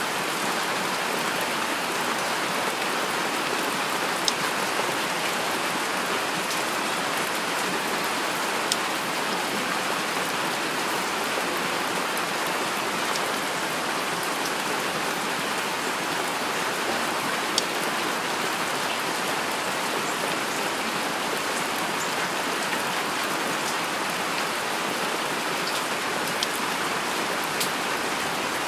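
Steady heavy rain falling, an even hiss, with a few sharper single drop hits standing out now and then.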